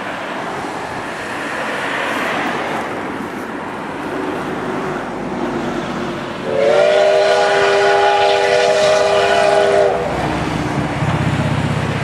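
Steam locomotive C11-207: a steady hiss, then about halfway through one long whistle blast of about three seconds, several tones sounding together. A low rumble follows near the end.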